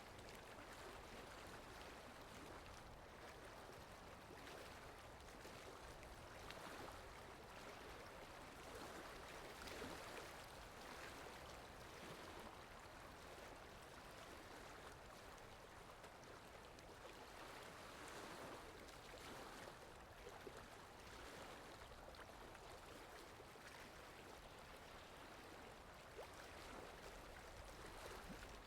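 Faint, steady rushing of water, the ambience of rain in a forest, swelling and easing gently every few seconds.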